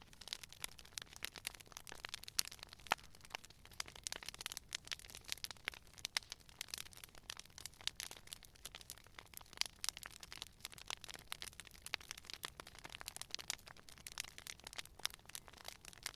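Campfire burning with a dense, irregular crackle of small pops and snaps from the wood.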